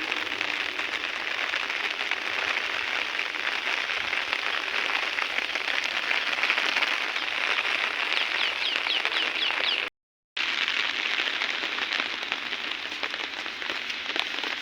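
Heavy rain falling steadily, a dense even hiss of drops on the ground. The sound cuts out completely for about half a second around ten seconds in.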